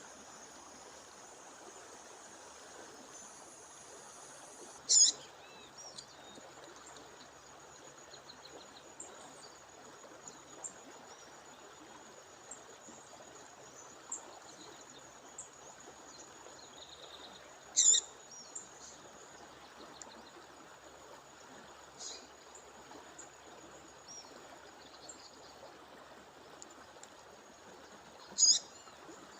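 A female songbird giving short, sharp, high calls, three loud ones spaced several seconds apart, over the steady rush of a waterfall. A thin high insect-like tone runs underneath.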